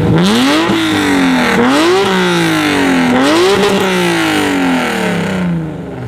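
A performance car's engine revved hard three times, each rev climbing quickly and falling back slowly. It eases off toward idle near the end.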